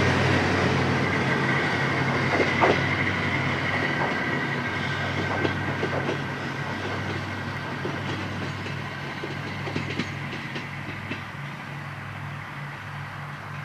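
Kominato Railway diesel railcar pulling away: its engine runs steadily under a run of wheel clicks over rail joints, and the whole sound grows steadily quieter as the train recedes.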